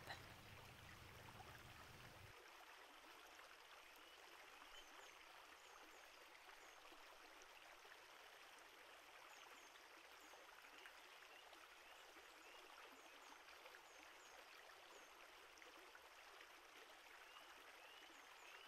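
Near silence: a faint steady hiss, with a faint low rumble that stops about two seconds in and a few very faint high chirps.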